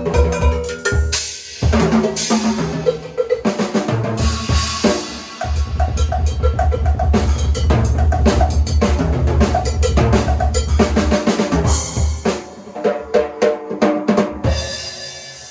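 Drum kit being played in a warm-up: rapid strokes on snare and toms with bass drum beats, building to a dense low rumble of rolls in the middle and thinning out near the end.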